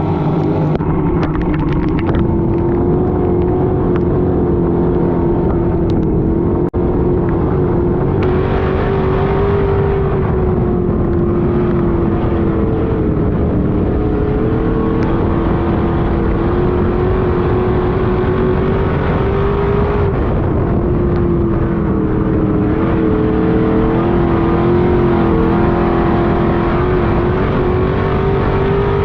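Street stock race car's V8 engine running hard under racing load, one steady loud note whose pitch dips and climbs a few times as the driver lifts and gets back on the throttle.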